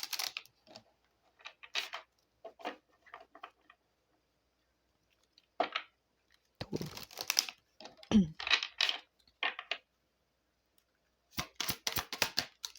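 A deck of Lenormand cards being shuffled and handled, with scattered rustles and card slaps, a busier stretch in the middle and a quick run of sharp clicks near the end.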